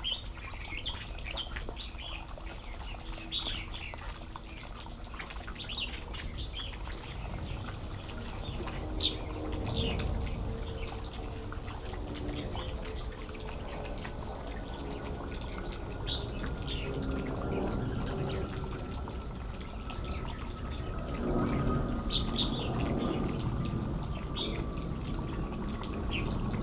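Short, scattered bird chirps come and go over a steady outdoor background. A faint, low mechanical drone rises and fades in the middle and again near the end, and a thin tone falls slowly in pitch through the second half, like a distant engine passing.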